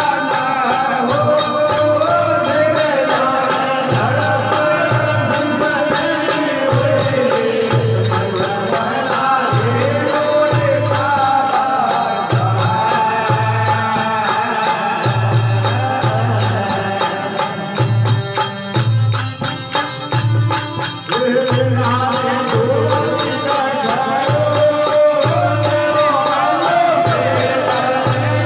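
Rajasthani desi veena bhajan music: a wavering melody over a regular low drum beat and bright jingling percussion, thinning briefly about two-thirds of the way through.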